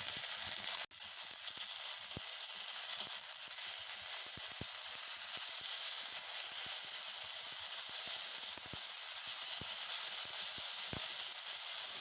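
Onion-tomato masala with ginger-garlic paste and chilli powder sizzling in hot oil in a kadai, a steady frying hiss with small scattered crackles. The sound briefly cuts out about a second in.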